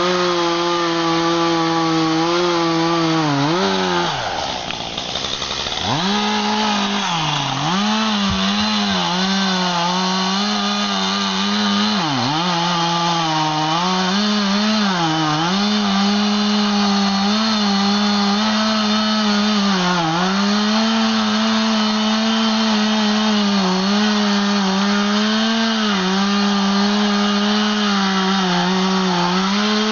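Chainsaw running at high revs and cutting wood, its pitch sagging and recovering as the chain takes load. About four seconds in the engine drops off briefly, then revs back up.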